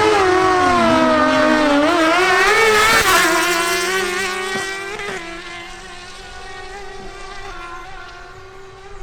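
Suzuki GSX-R1000 inline-four sport bike engines at full throttle in a drag launch, pitch climbing through the gears with a shift about three seconds in, then fading as the bikes pull away down the strip.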